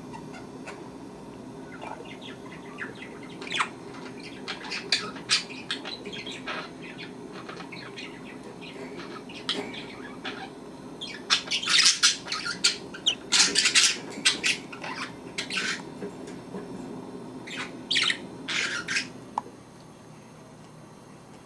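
Budgerigars chirping and squeaking in short high calls, scattered at first, then in busier clusters about halfway through and again near the end, over a steady low hum.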